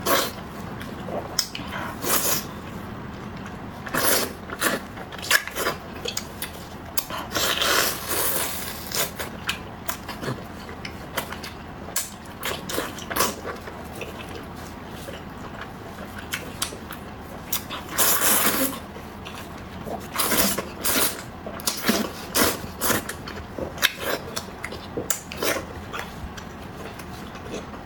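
Close-miked eating: irregular chewing, smacking and wet mouth clicks, with a few longer noisy stretches of slurping or crunching.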